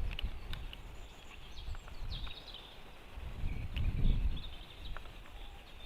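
Outdoor ambience at a white-tailed eagle nest: wind rumbling in gusts on the microphone, loudest about four seconds in, with faint, scattered high bird chirps.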